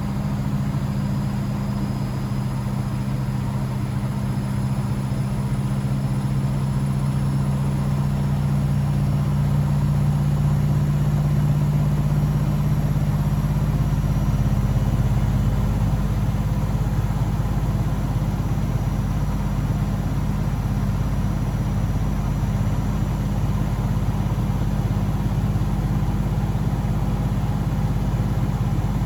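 Blomberg WAF 7442 SL washing machine running with a steady low mechanical hum. It grows slightly louder over the first half, and a faint high whine rises slowly in pitch.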